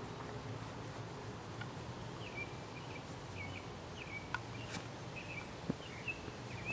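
Quiet outdoor background noise with a bird chirping repeatedly, short high calls coming about once or twice a second, and a few faint clicks.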